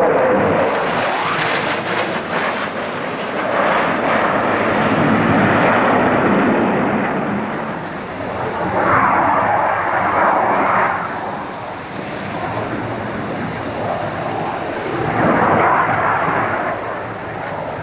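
Aircraft flying past: a loud, rushing engine rumble that swells and fades, loudest for a couple of seconds about halfway through and again near the end.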